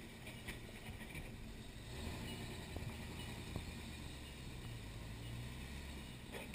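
Engine of an off-road 4x4 running at low revs as it crawls slowly over rocks and logs, with a couple of faint knocks about halfway through.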